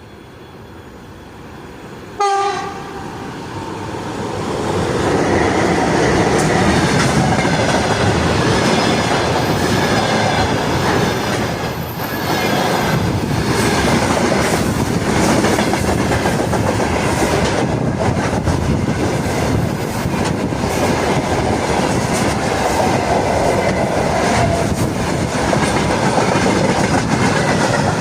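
VL11U electric locomotive gives a short horn blast about two seconds in, then the train rolls past loudly, with a steady rumble and the clatter of wheels over rail joints.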